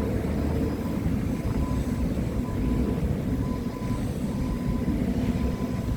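Diesel engine of a piece of heavy training equipment running steadily, a low, continuous rumble.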